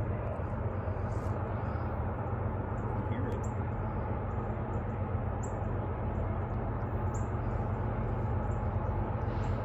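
Low, steady rumble of an approaching BNSF freight train's diesel locomotives, heard from a distance, with faint bird chirps now and then.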